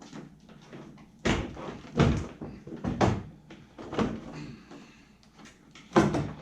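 A run of hollow clunks and knocks, about one a second with the loudest near the end, as a car's damaged front bumper and grille are handled during removal.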